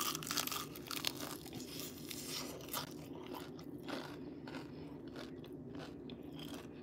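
Crunching and chewing of crispy fried chicken close to the microphone: irregular crunchy bites, densest in the first second, then softer chewing.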